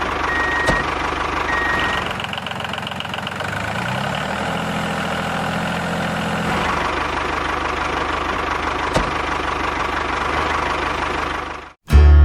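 A tractor engine running steadily with a low, knocking hum. Its pitch climbs for a few seconds, then it settles back to steady running. It cuts off abruptly near the end.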